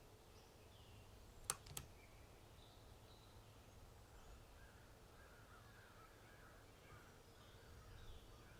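Faint bird calls over quiet background ambience, broken by two sharp clicks close together about a second and a half in.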